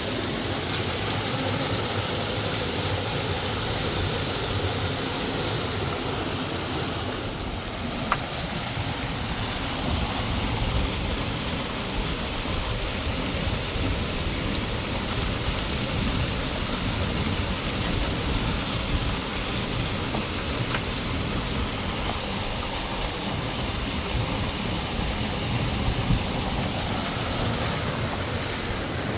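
Steady rush of flowing river water, turning brighter about eight seconds in, with a few faint clicks.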